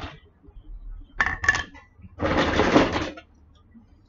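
Plastic building bricks clattering as pieces are picked through and handled: a short clatter about a second in, then a denser rattle lasting about a second.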